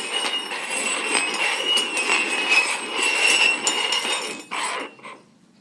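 Cups being slid and shuffled around on a tabletop: a continuous scraping and rattling with small clinks that stops about four and a half seconds in, followed by one brief scrape.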